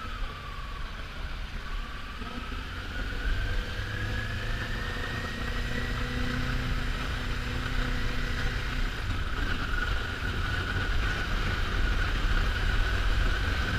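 Kawasaki Ninja 400's parallel-twin engine running on a ride, heard from the rider's camera, with a faint whine that rises slowly over a few seconds and then eases back down.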